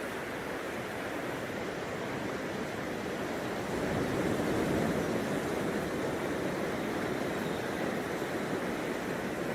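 Ocean surf: waves breaking and washing up on a beach, a steady rush that swells louder about four seconds in.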